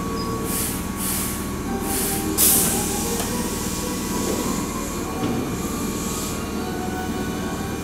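Keihan 5000 series commuter train drawing to a stop at the platform and standing with its doors open. Several short hisses of air come in the first two and a half seconds, the last one the loudest, over a steady low hum from the train.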